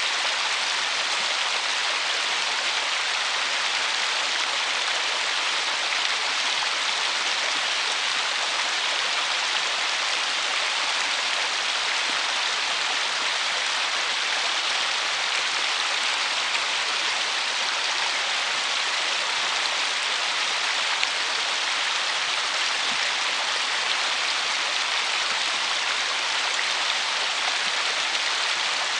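River water rushing steadily over a shallow, stony riffle: an even, unbroken hiss of flowing water.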